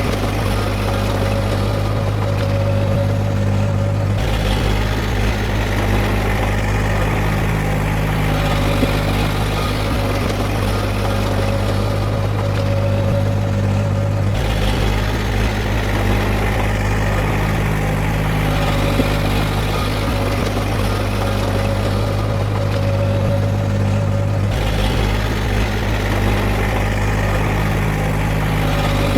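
Heavy diesel engine of earthmoving equipment running steadily, a continuous low drone whose tone shifts abruptly about every ten seconds.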